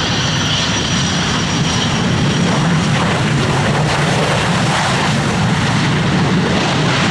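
Airliner engines running loud and steady, a dense rush with a deep drone under it, and a high whine that fades out about three seconds in.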